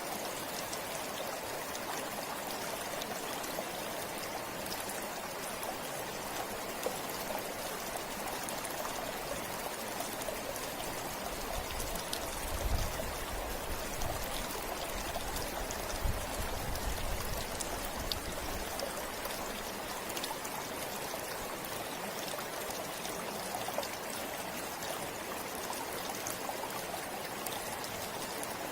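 River water flowing over rocks in a steady, continuous rush with some trickling, and a brief low rumble a little under halfway through.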